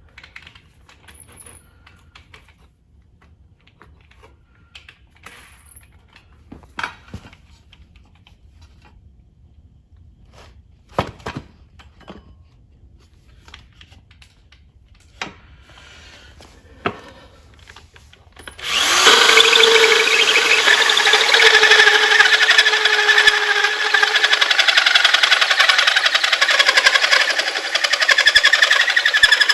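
Light knocks and clanks of metal parts being handled, then about two-thirds of the way in a power tool starts up loud and runs steadily on the metal motor plate to the end, its whine dropping slightly in pitch as it bites. It is trimming the plate, a faster way than filing it with a burr.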